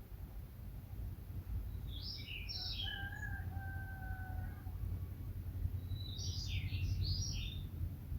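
Wild birds singing: two bursts of quick, high chirping phrases, with a lower, drawn-out call between them. A steady low rumble runs underneath.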